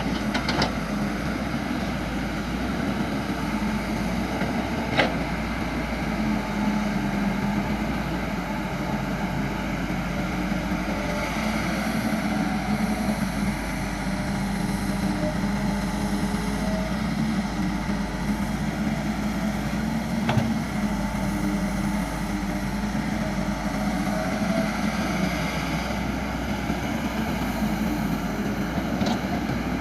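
Caterpillar excavator's diesel engine running steadily as the machine works, with a few brief sharp knocks about five seconds in, around twenty seconds and near the end.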